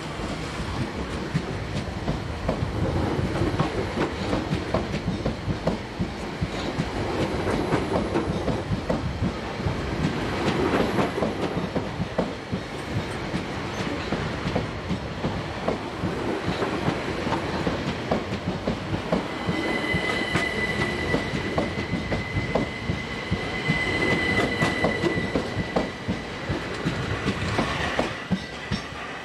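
Class 387 Electrostar electric multiple unit moving out past at low speed: a steady rumble with wheels clicking over rail joints and points. From about twenty seconds in until near the end a steady high-pitched wheel squeal sounds over it.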